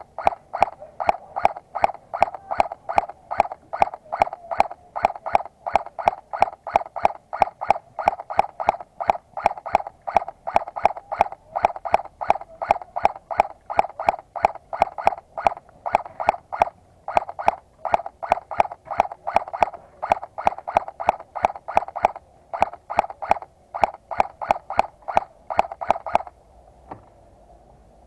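Airsoft guns firing single shots in a steady rapid series, about four sharp cracks a second, stopping shortly before the end.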